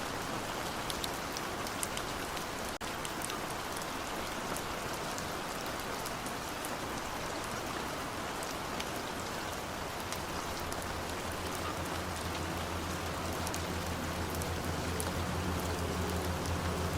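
Steady rain falling, an even hiss with the patter of individual drops. About ten seconds in, a low rumbling hum comes in underneath and grows slowly louder toward the end.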